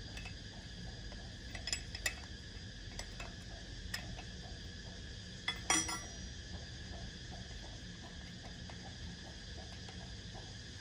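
Occasional light metallic clicks and clinks of steel hand tools and engine parts during injector removal on a Caterpillar 3406 engine, the loudest a short ringing clink about six seconds in, over a steady low hum.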